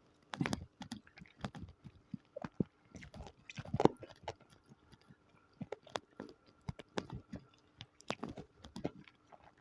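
Close-miked chewing and biting of spicy chicken feet, heard as irregular short mouth clicks with pauses between them, loudest about four seconds in.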